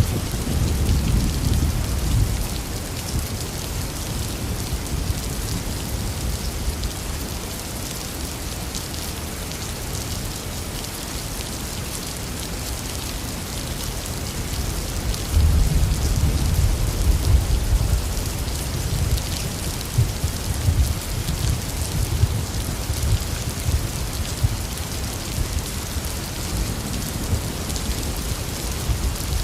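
Heavy rain falling steadily, with thunder rumbling low at the start and again about halfway through.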